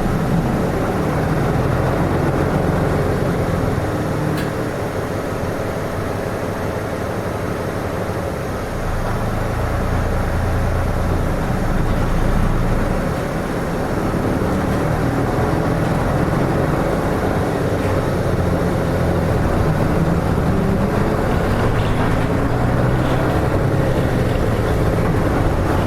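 Hino Rainbow RM (KK-RM252GSN) city bus's diesel engine and drivetrain heard from inside the bus while it drives along, the engine note shifting up and down with small dips in loudness a few times.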